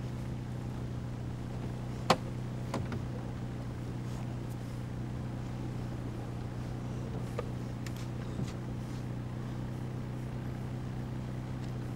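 Car engine idling with a steady low hum. A single sharp click about two seconds in, and a few faint ticks later on.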